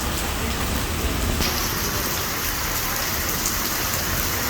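Monsoon rain falling in a steady hiss, over a low rumble. The hiss turns brighter about a second and a half in.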